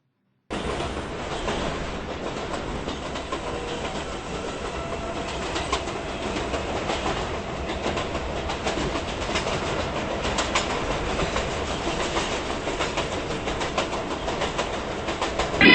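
New York City Subway 6 train running along the track: a steady rumble with wheels clicking over rail joints. It starts abruptly about half a second in and grows slightly louder.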